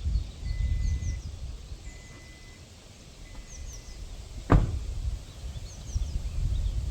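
Wind gusting on the microphone with small birds chirping in short repeated phrases, and a thin steady whistling tone in brief stretches during the first half. A single sharp thump about four and a half seconds in is the loudest sound.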